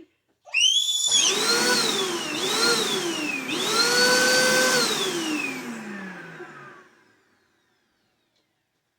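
Vacuum cleaner motor switched on, running with a high whine and rushing air that twice sags in pitch and picks up again. It then switches off and winds down with a falling whine, stopping about seven seconds in.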